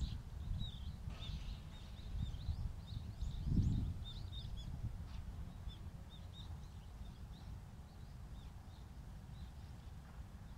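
Small birds chirping in many short, high calls, busy at first and thinning out over the second half, over a low wind rumble on the microphone that swells briefly a few seconds in.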